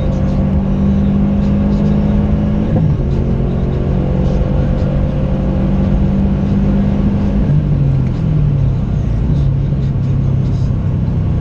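Subaru WRX STI's turbocharged flat-four engine, muffler deleted, pulling under throttle: the exhaust note climbs slowly, drops at a gear change about three seconds in, climbs again, and breaks at another shift about eight seconds in.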